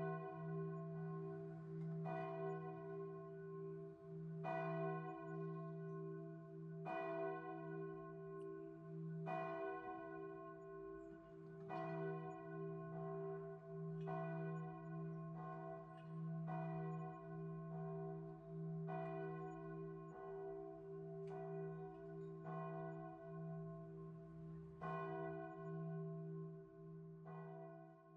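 A bell struck again and again, about once every two seconds, each strike ringing on and fading into the next, over a steady low hum.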